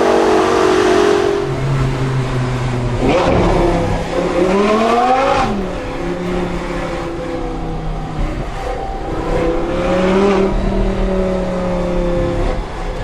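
Audi R8 V10 engine through an aftermarket Per4mance exhaust, running with a quick rev about four seconds in whose pitch rises and drops back, then settling to a steady low note.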